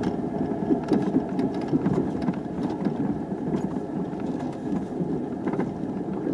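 A 4x4's engine running as it drives over a rough dirt trail, heard from inside the cab, with scattered clicks and rattles.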